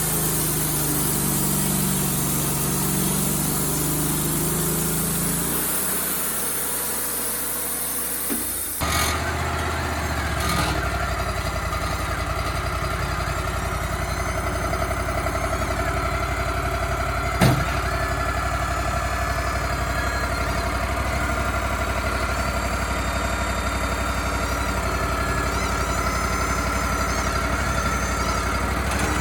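Engine of a Wood-Mizer LT35HD sawmill running steadily. About a third of the way in, the sound changes abruptly to a lower, steadier engine hum. One sharp knock comes near the middle.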